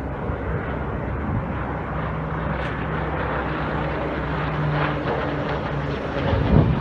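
Firefighting plane's engine droning overhead as a steady hum over outdoor noise, with a few low thumps near the end.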